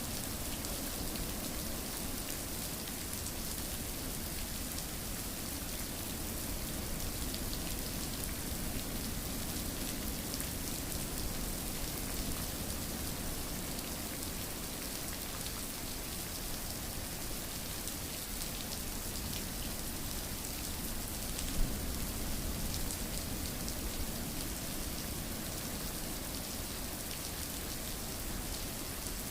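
Steady rain falling, an even patter of drops on a surface, with one brief louder tick about twenty-one seconds in.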